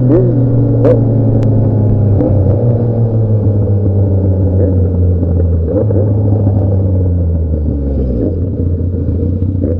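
Motorcycle engine with an open exhaust running under load, its pitch sinking slowly and dropping in steps a few times. A couple of sharp cracks about a second in.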